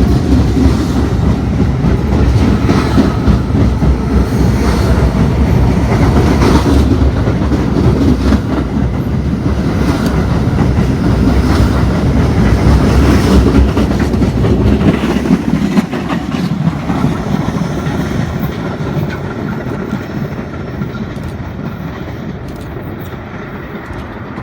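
R42 subway car running along the track, wheels clattering over the rail joints with a loud, steady rumble that eases off over the last ten seconds.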